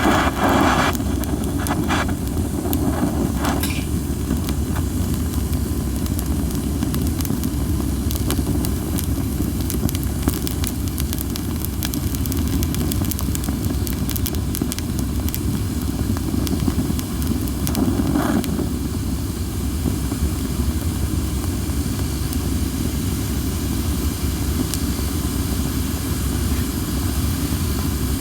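Cherry-wood campfire crackling with many small pops over a steady low rush of strong wind. Short hissing spurts come near the start, a few seconds in and about eighteen seconds in: steam escaping from firewood that was not dried enough.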